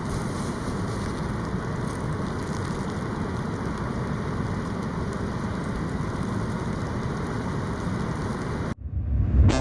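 Steady rushing noise of strong wind and rain outdoors, buffeting the microphone. It cuts off abruptly near the end, and a pitched sound with several tones begins.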